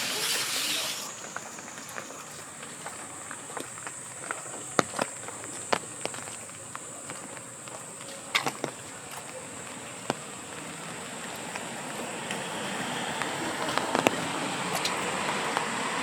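Steady rain hiss with scattered sharp drip taps, over a thin steady high whine; a broader swell of noise builds from about twelve seconds in.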